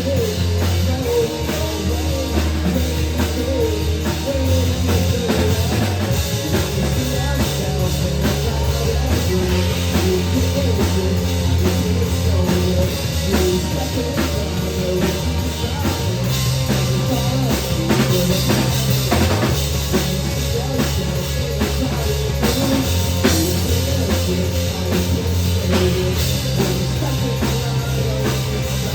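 A rock song with a full drum kit, bass and electric guitar playing at a steady loud level, with the bass line shifting between held notes every few seconds.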